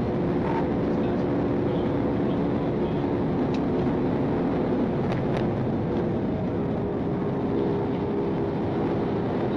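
Steady vehicle noise, an engine running with road or wind rumble and a low steady hum, with a few faint ticks.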